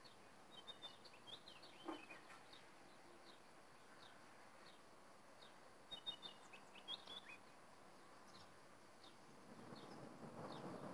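Very quiet background with scattered faint bird chirps: short high notes in little clusters about a second in and again around six to seven seconds, and one longer falling call near two seconds. A faint rushing noise swells near the end.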